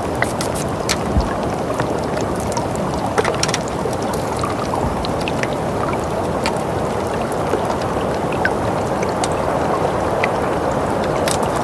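Steady soft wind noise of a winter ambience, with many small scattered crackles and clicks over it.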